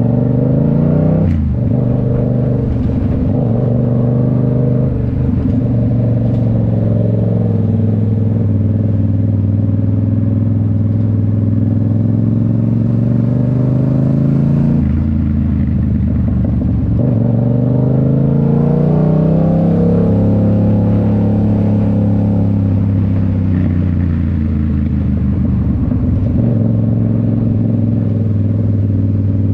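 A 2019 Yamaha MT-07's 689 cc parallel-twin engine running through an aftermarket Toce full exhaust while riding. The engine note rises and falls as it pulls, with sudden breaks at gear changes. Past the middle there is a long rising pull, then a gradual easing off.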